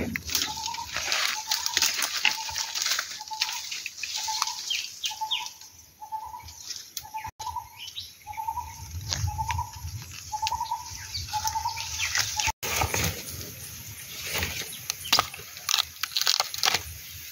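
A bird calls a short single note about twice a second, some twenty times, and stops about twelve seconds in. Behind it is a steady crackle and rustle of dry leaves and bamboo litter being handled as bamboo shoots are cut.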